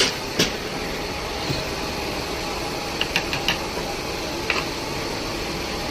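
Workshop machine running with a steady mechanical hum, with a few sharp metallic clicks, several together about three seconds in.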